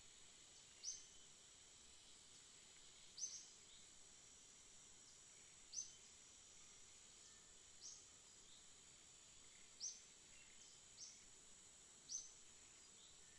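Faint short, high bird chirps repeated about every two seconds, over a steady high-pitched insect drone.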